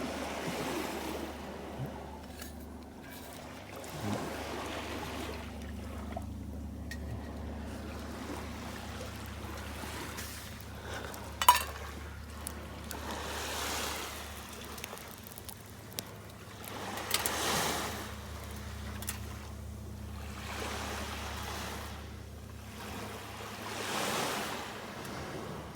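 Small waves washing onto a sandy beach, swelling every few seconds, with one sharp click about eleven seconds in.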